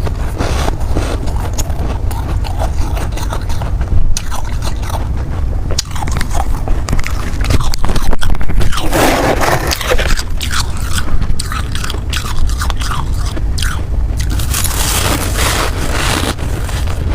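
Ice being bitten and chewed close to the microphone: repeated crisp crunches and crackles, with scraping sounds, louder about nine seconds in and again about fifteen seconds in.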